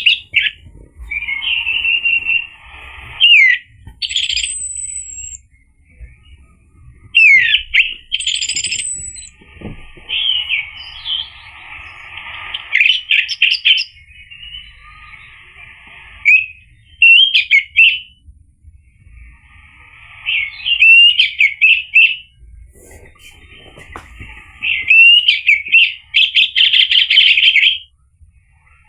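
Orange-headed thrush singing: about seven loud, rapid phrases of varied whistles and warbles, each one to three seconds long, with short pauses between and a few thin high notes mixed in.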